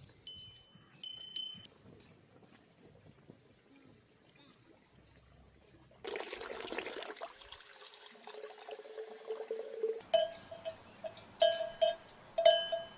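Small bells clinking in a few irregular strikes. From about six seconds in, liquid pours into a container for about four seconds, then bells clink again in repeated strikes.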